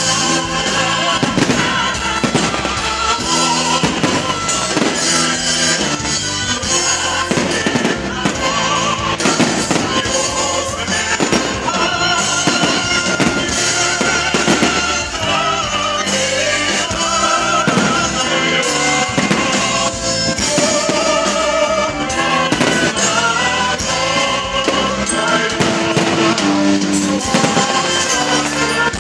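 Fireworks shells bursting with repeated bangs and crackles, over loud music with singing.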